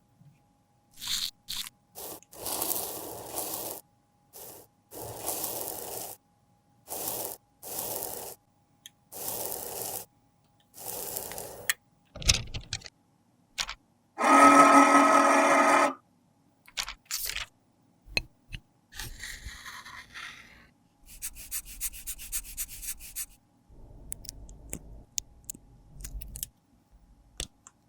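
Pressed powder blush being scraped in a series of short strokes, with a louder two-second grating stroke about halfway through and quicker, fainter scratches near the end.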